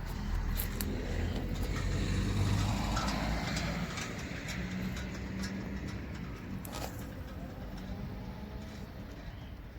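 A motor vehicle's low engine rumble, loudest about two seconds in and then fading away, with a few sharp clicks.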